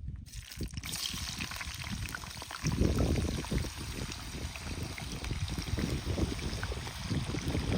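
Water running steadily, starting abruptly just after the opening and continuing throughout, with a fluctuating low rumble underneath.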